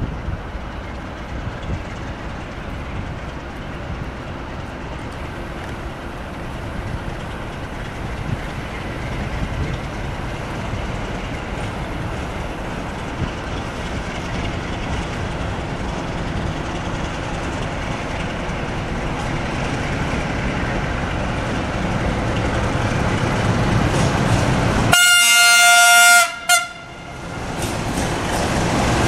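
Diesel locomotive hauling a passenger train on approach, its engine rumble growing steadily louder, then one blast of its horn lasting a little over a second near the end.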